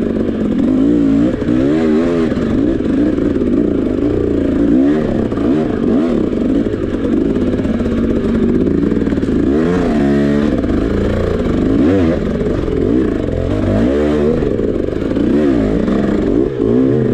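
Dirt bike engine being ridden hard off-road, revving up and dropping back again and again, its pitch rising and falling every second or two as the throttle opens and closes and the gears change, with some clatter.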